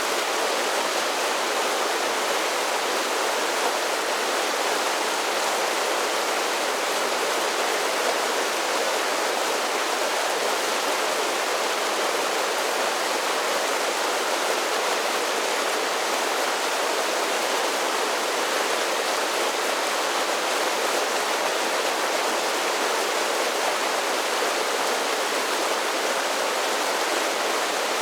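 Creek water spilling over a series of small cascading falls: a steady, even rush of water with no breaks or changes.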